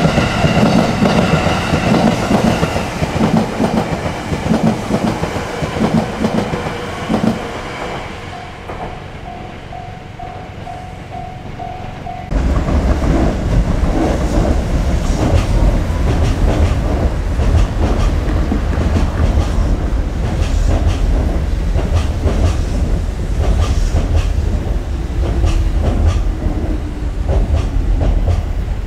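Electric trains passing on the line: a train with a steady whine fades away over the first several seconds, then a quieter stretch with a tone repeating a few times a second. About 12 seconds in a loud low rumble starts abruptly, with wheels clicking over rail joints at regular intervals as another train goes by.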